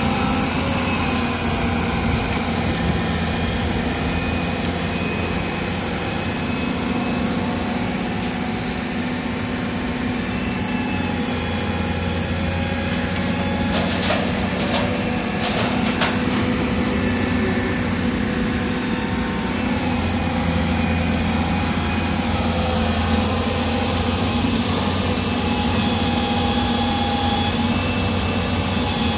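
Heavy diesel engine of an earthmoving machine running steadily, its pitch shifting a little now and then, with a few sharp knocks about halfway through.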